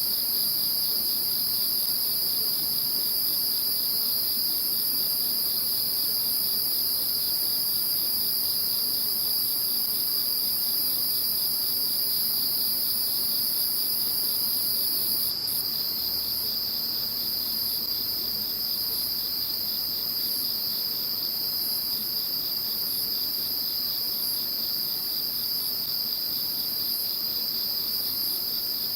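Chorus of crickets and other singing insects: one steady high trill and a second, even higher continuous ring. About halfway through, the highest voice changes to a rapid, even pulsing.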